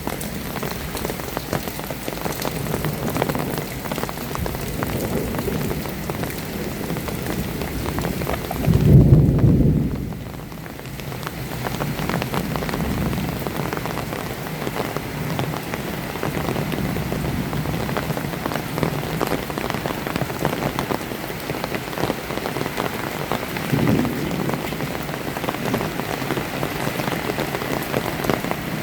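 Heavy rain falling and pattering on surfaces, a steady hiss. About nine seconds in, a brief loud low rumble breaks in and the hiss of the rain drops away for a moment afterwards; a smaller low bump comes near the end.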